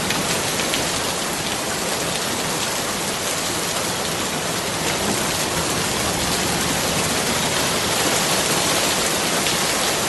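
Steady rain falling, a dense even hiss with faint individual drop ticks.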